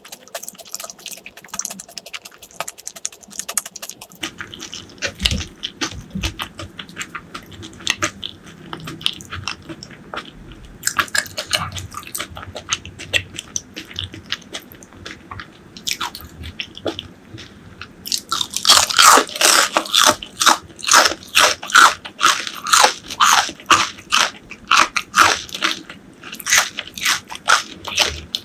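Close-miked eating sounds: crunchy bites and chewing of fried food, growing much louder and denser about two-thirds of the way through.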